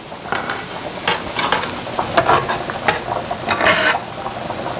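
Utensil stirring a Marsala wine reduction with herbs in a pan, with irregular scraping strokes against the pan every second or so.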